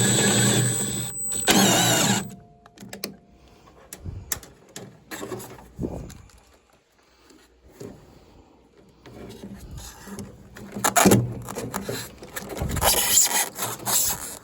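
Cordless power drill run in short bursts, its motor whining and its pitch wavering as the trigger is squeezed. Between bursts there are light clicks and knocks of parts being handled.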